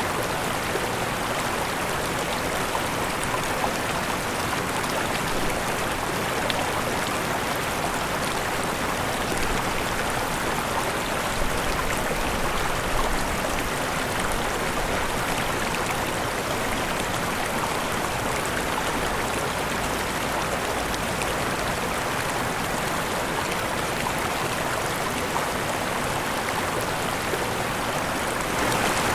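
Waterfall: water falling and rushing in a steady, unbroken flow.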